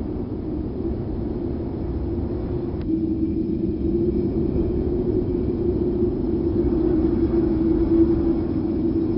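Wind sound effect: a steady low rushing noise with a droning hum that grows stronger about three seconds in, where a single brief click is heard.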